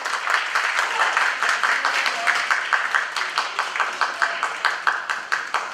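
Crowd clapping, many sharp individual claps over a steady patter.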